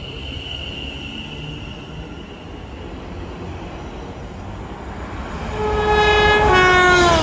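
A train approaching with its running rumble building up. About five and a half seconds in, its horn sounds one held note whose pitch drops as the train passes.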